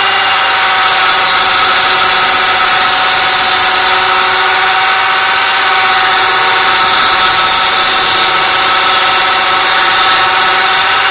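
Mogilevliftmash IE-6009 household woodworking machine running steadily and loudly while a workpiece is fed through it. The cutting adds a harsh high hiss that starts as the wood goes in and stops as it comes out, over the machine's steady hum.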